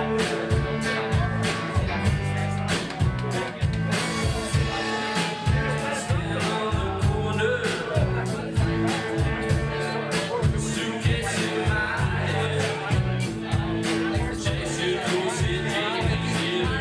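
Rock music with a fast, steady drum beat, bass and electric guitar, and singing.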